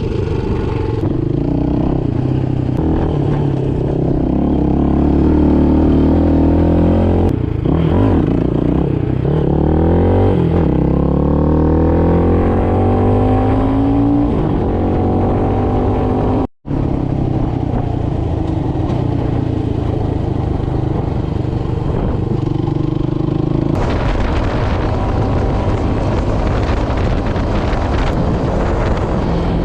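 Motoland Legend motorcycle engine running under way, its pitch climbing in several rising sweeps through the first half as it accelerates. There is a brief dropout in the middle, and more wind rush joins in over the last quarter.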